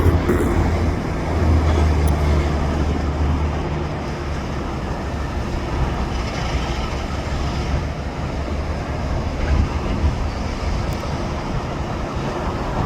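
Freight train cars rolling past in a steady rumble, with a low hum underneath that fades out about eight seconds in.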